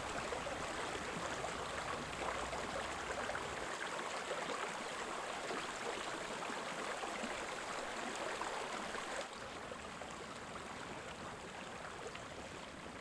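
Small woodland creek running, a steady rush of water that drops a little in level about nine seconds in.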